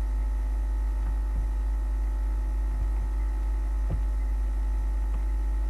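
Steady low electrical hum with a few faint steady tones above it, and no speech; a faint click about four seconds in.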